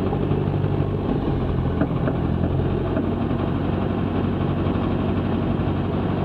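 Cessna 162 Skycatcher's four-cylinder Continental O-200 engine running steadily at low taxi power, a constant drone heard from inside the cockpit.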